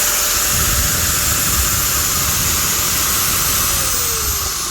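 Makita angle grinder running freely at full speed, running smooth with no popping from inside: the earlier sparking and popping fault is cured. Near the end its whine starts to fall in pitch and the sound fades as the motor slows.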